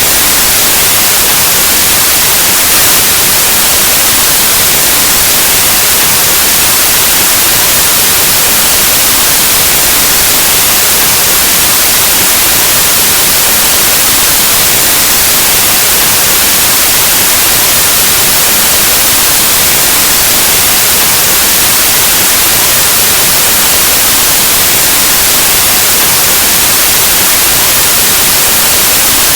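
Steady, loud white noise: an even hiss of static across the whole range, with no changes or events.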